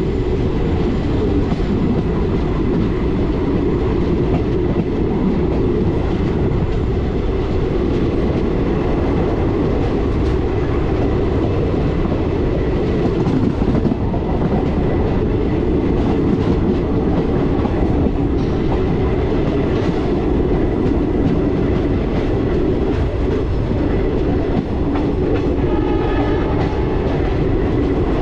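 Passenger train running steadily along the track: a continuous rumble of wheels on rails with clickety-clack.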